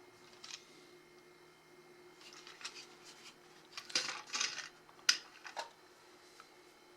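Handling sounds as toy train cars are unpacked from their boxes: scattered rustles and light clicks, a cluster about 4 seconds in and a sharp click about a second later, over a steady low hum.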